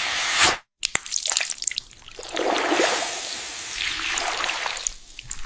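Water dripping and trickling, with scattered small clicks and a brief break to silence under a second in.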